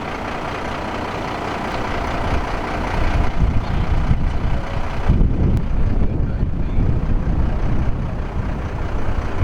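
Heavy truck engine running with a rushing rumble; about five seconds in the high hiss drops away and the low rumble grows heavier and more uneven.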